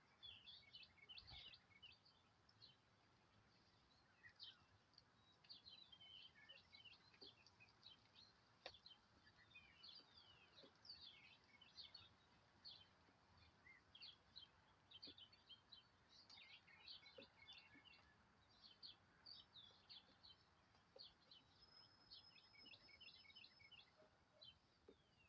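Faint, busy chirping of small birds: many short high notes in quick succession throughout, with a sharp click about nine seconds in.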